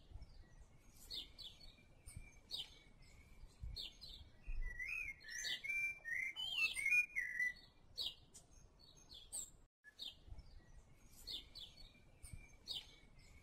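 Birds chirping: short high chirps repeating throughout, fairly faint, with a warbling run of gliding notes about five seconds in.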